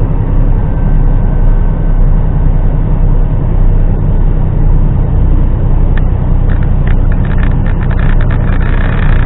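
HGV truck's diesel engine running steadily, heard from inside the cab as a loud low drone. From about six seconds in, a run of light irregular clicks and rattles sits over it.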